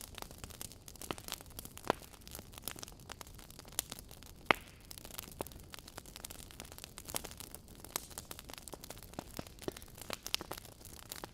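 Wood fire in a fireplace crackling: irregular sharp pops and snaps over a low steady hiss, with one louder pop a little before the middle.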